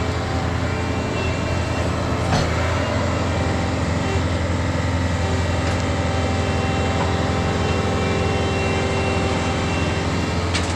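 Tractor engine running steadily with a deep hum, and a single sharp knock a little over two seconds in.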